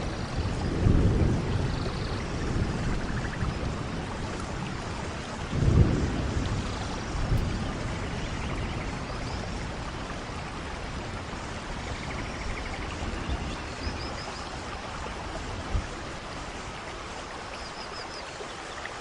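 Steady heavy rainfall with a continuous hiss, broken by low rumbles that swell and fade about a second in and again around six seconds in, from distant thunder or gusts of wind.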